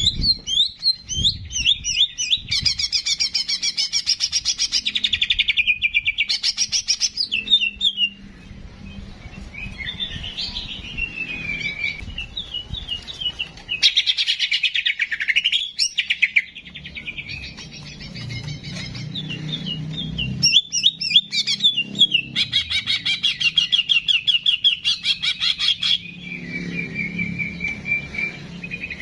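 Songbird singing in bouts of rapid chattering trills and quick repeated notes, broken by short whistled phrases and brief pauses.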